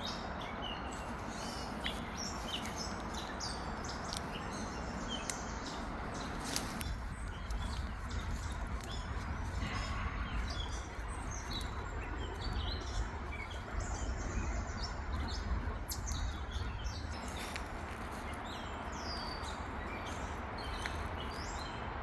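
A group of birds calling back and forth, many short chirps overlapping throughout, over a steady background rush.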